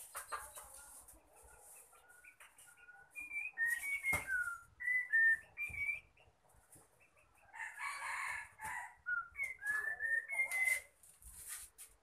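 A caged songbird calling: two series of short, clear whistled notes at slightly varying pitch. A rooster crows once about two-thirds of the way through.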